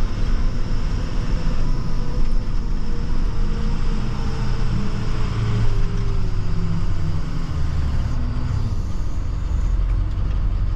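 Salt truck driving on a slushy road: a steady low engine and road rumble, with a faint whine that slowly drops in pitch partway through.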